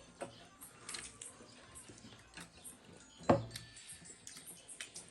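Close-up eating sounds: many small clicks and smacks of chewing, with one sharper knock about three seconds in.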